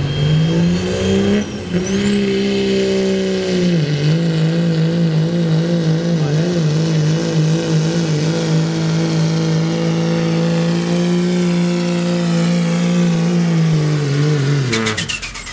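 Turbocharged diesel pickup truck making a truck pull, its engine at full throttle under load and held at a nearly steady high pitch, with a high turbo whistle that climbs in the first few seconds and then holds. Near the end the throttle is lifted and the engine and turbo wind down.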